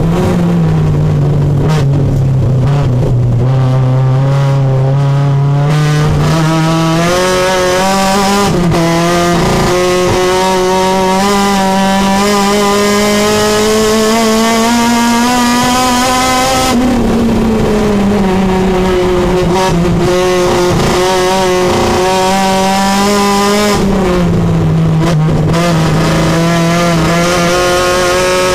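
Supercharged Honda K24 four-cylinder engine of a race-prepared Civic, heard from inside the cabin while it is driven hard on track. Its pitch climbs slowly under load for long stretches, drops sharply as the driver lifts off about two-thirds of the way in and again a few seconds later, then climbs once more near the end.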